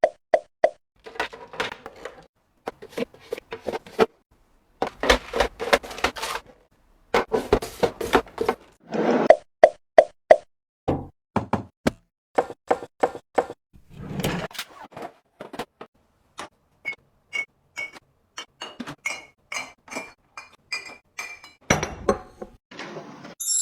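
Items being handled and set down: a long run of light taps, knocks and clinks, some in quick bursts of several a second, a few with a short ringing note.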